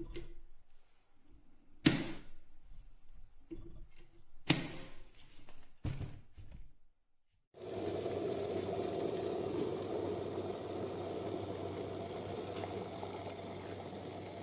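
A few sharp clicks and knocks, then a steady rushing hiss of water heating in a COSORI 1.7 L stainless steel electric kettle.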